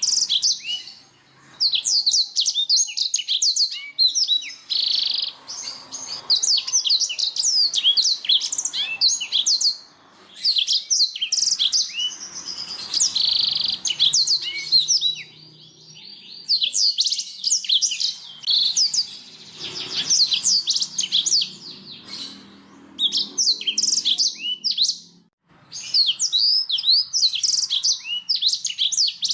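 Domestic canary singing: long phrases of rapid high chirps and trills with a few held whistled notes, broken by short pauses.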